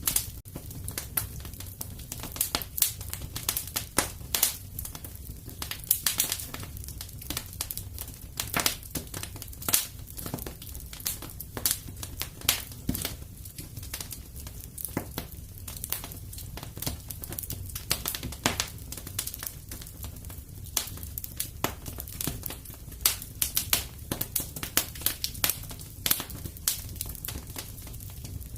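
Wood fire in a fireplace crackling, with frequent irregular sharp pops over a low steady rumble.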